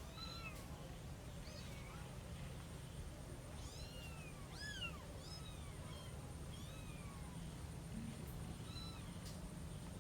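Kitten mewing repeatedly: about eight short, high-pitched mews, each rising and falling in pitch, most of them bunched in the middle, over a low steady hum.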